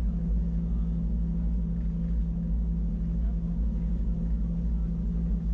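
Wengernalp Railway electric rack-railway train running, heard from inside the carriage: a steady low rumble with a constant hum.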